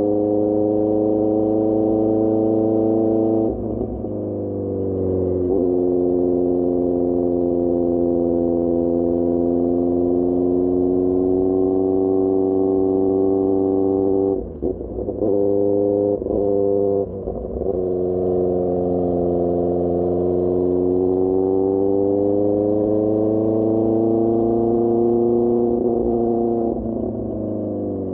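QJMotor SRK600 inline-four engine through a Pure Austin Racing GP1R exhaust, running steadily under throttle while riding. There is a brief dip in pitch a few seconds in and several quick drops and recoveries around the middle as gears are changed, then a slow climb in pitch before the throttle eases near the end.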